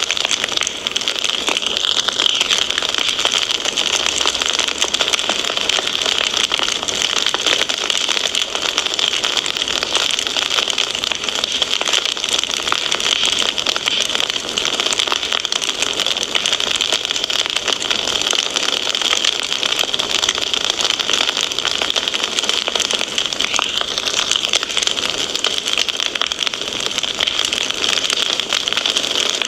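Wood fire crackling steadily: a dense stream of small pops and snaps over a constant hiss.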